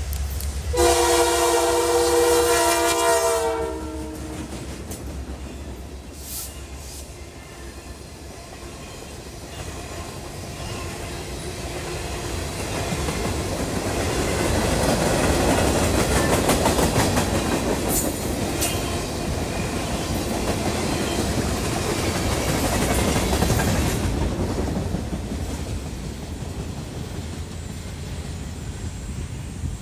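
Locomotive horn sounding a blast of several tones at once, cutting off about four seconds in. Then the rumble and wheel clatter of a passing train build up, stay loud through the middle and fade near the end.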